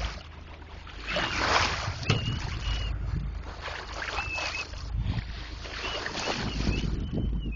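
Water rushing and splashing along a sailboat's hull as it moves, with wind on the microphone, swelling and easing every second or two. Short, faint high squeaks come and go over it.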